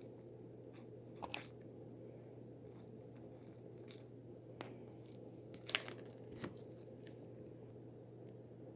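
A few brief clicks and taps from small objects being handled, the loudest a little before six seconds in, over a steady low hum.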